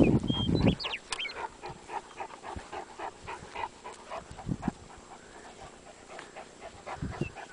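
Dogs panting close by with short, irregular breaths, after a brief low rumble of wind or handling on the microphone at the start.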